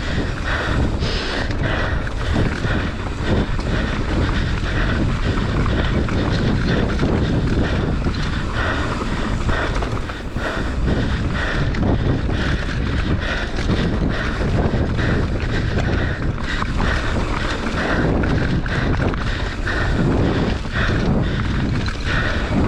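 Wind buffeting a ride-mounted camera microphone during a fast mountain bike descent, over a steady rattle and clatter of the bike and tyres on a rough trail.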